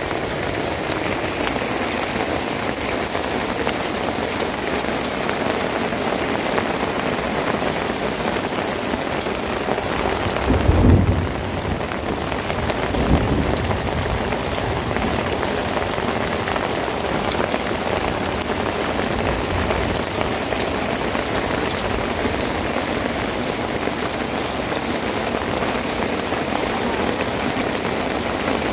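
Heavy rain falling steadily on rocky, muddy ground and puddles, a continuous hiss of drops. About eleven seconds in there is a brief low rumble, with a smaller one a couple of seconds later.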